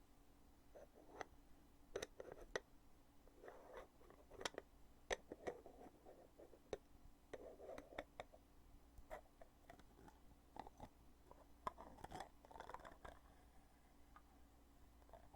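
Close-up clicks and short scrapes of a weighty cosmetic foundation container's lid being opened and shut again and again, sharp snaps at irregular intervals with brief rubbing between them.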